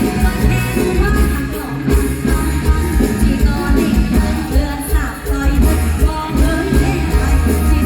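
Live mor lam band music with singing over a heavy, pulsing bass beat.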